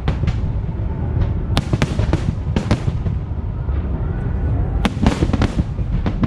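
Aerial fireworks bursting in quick, irregular succession: sharp cracks and booms over a continuous low rumble, with several bursts close together near the end.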